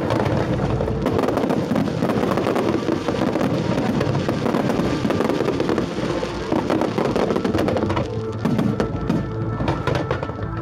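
Loud show music playing over outdoor loudspeakers, mixed with fireworks bursting and crackling. The crackle grows denser near the end.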